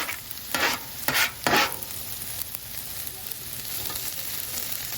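Food sizzling on a Blackstone flat-top griddle while a spatula is worked through fried rice and scrambling eggs, with three loud scraping strokes in the first two seconds, then a steady sizzle.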